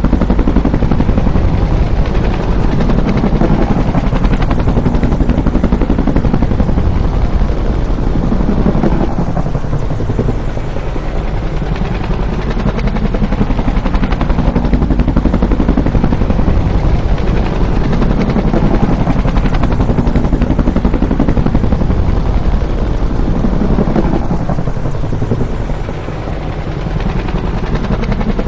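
Bell UH-1 "Huey" helicopter, its two-bladed main rotor beating rapidly and continuously over the turbine. The sound is loud throughout, easing briefly twice as the passes come and go.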